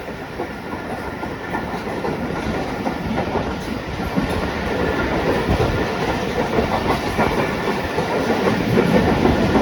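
Train running on the rails, wheels clattering over the rail joints, the noise growing steadily louder.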